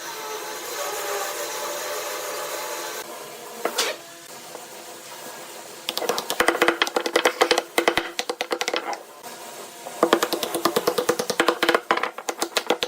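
Wood lathe with a turning tool cutting the spinning wood. It starts with a steady cut, then two spells of rapid, chattering knocks, each about three seconds long, with a short pause between them.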